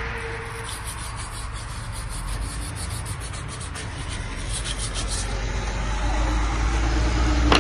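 Quick, repeated scraping strokes worked back and forth for several seconds, then a low engine-like rumble that grows near the end.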